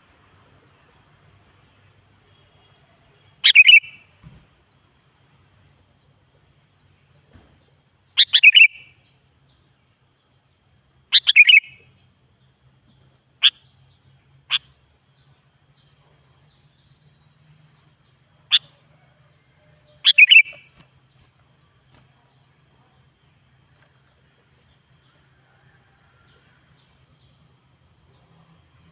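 Sooty-headed bulbul (kutilang) giving short, loud, bubbly call phrases, seven in all, a few seconds apart. Some are full phrases and some are single sharp notes. A faint steady high buzz runs underneath.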